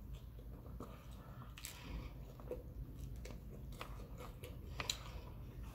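Chewing and biting of fried lake trout, with scattered short clicks.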